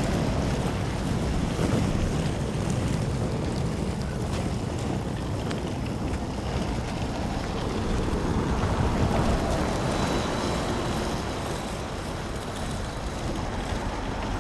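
Road traffic going by: a steady rush of engine and tyre noise that swells as vehicles pass, with wind buffeting the microphone.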